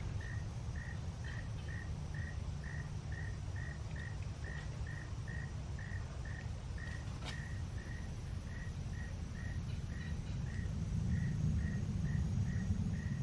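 A cricket chirping steadily, about two short chirps a second at one pitch, over a low background rumble that swells a little near the end.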